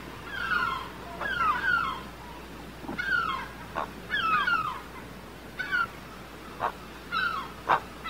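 Bird calls: short notes that slide down in pitch, coming singly and in quick pairs about once a second, with a few sharp clicking notes in the second half.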